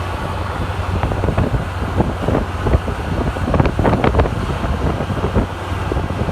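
Wind buffeting the microphone in irregular gusts over a low steady rumble.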